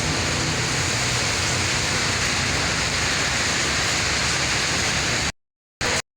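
Steady hiss of heavy rain falling. It cuts off abruptly near the end, returns for a fraction of a second, then stops.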